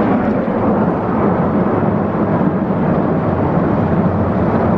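Tunnel car wash equipment heard from inside the car's cabin: a steady, loud rush of water spray and machinery on the car's body.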